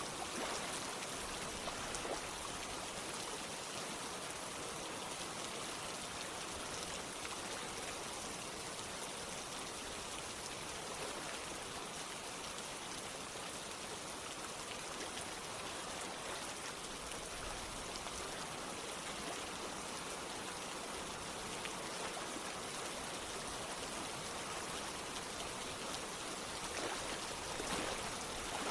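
Steady rain mixed with running water: an even hiss with scattered faint drop ticks.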